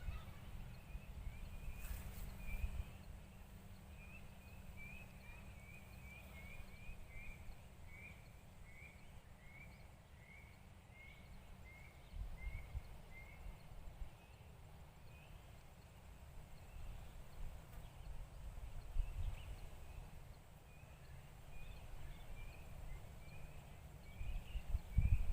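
A songbird repeating short chirps, about two a second, in long runs, with a few other bird calls scattered in. A low rumble runs underneath.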